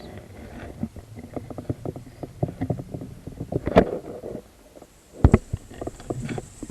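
Irregular clicking and knocking over a low rumble, with two louder thumps about four and five seconds in.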